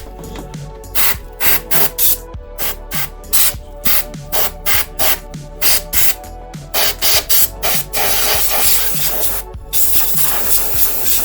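Compressed-air blow gun hissing in short blasts, about two a second, then held open in longer blasts near the end, with background music that has a steady beat.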